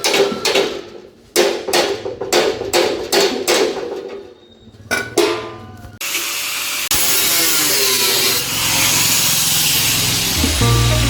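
Metal being struck repeatedly with a hammer, about three or four ringing blows a second. About six seconds in, a power tool starts and runs steadily, and music comes in near the end.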